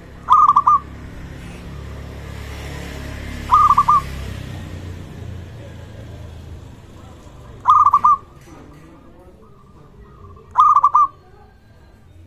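Zebra dove (local perkutut) cooing: four short phrases of a few quick rolling notes each, coming every three to four seconds, over a low steady rumble.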